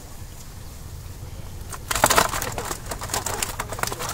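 A low steady hum, then about halfway in a dense run of irregular crackling and rustling, like handling noise, starts and carries on.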